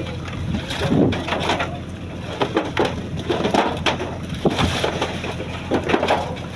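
A fishing boat's engine runs with a steady low hum under irregular knocks and clatter from work on deck.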